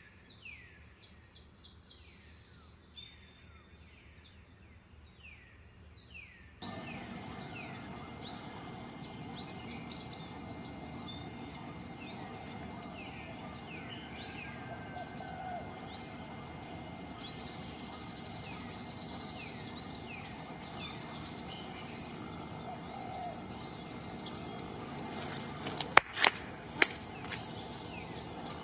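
Wild forest birds calling over a steady high buzz. At first a bird repeats short falling calls over a quiet background; about six and a half seconds in, the background jumps abruptly to a louder steady hiss and a bird gives short rising whistles every second or two, with a few sharp clicks near the end.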